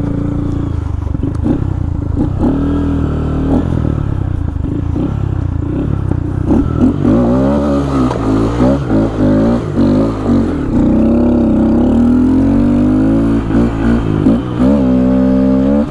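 A 2015 Honda Grom's 125 cc single-cylinder four-stroke engine being ridden on a gravel and dirt road. It runs fairly steadily at first, then revs up and down repeatedly through throttle changes from about halfway, and rises and falls once more near the end. Loose stones clatter under the knobby tyres.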